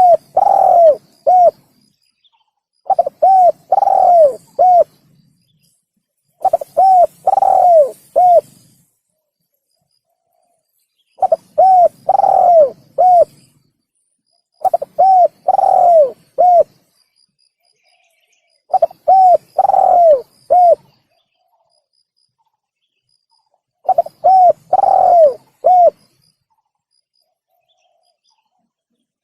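Spotted dove (tekukur) cooing: phrases of a few short coos around one longer, falling coo, repeated about seven times with silent gaps of a few seconds, played as a lure call for catching the birds.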